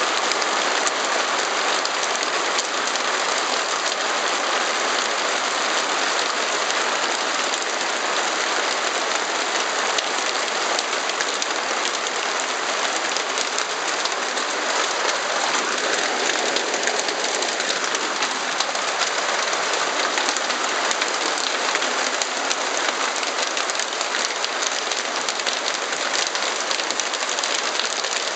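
Heavy hail and rain pelting down in a dense, steady hiss and clatter.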